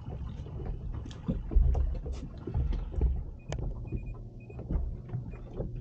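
Wind buffeting the microphone and water slapping against the hull of a small boat, with scattered light knocks and three short high beeps about halfway through.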